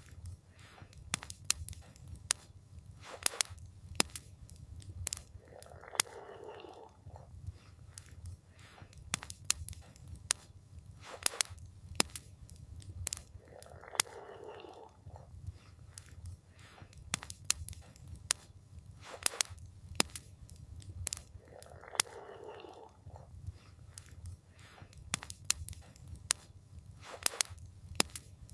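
Wood fire crackling, with frequent sharp pops and snaps scattered irregularly over a low, steady rumble. A soft swell of sound comes and goes about every eight seconds.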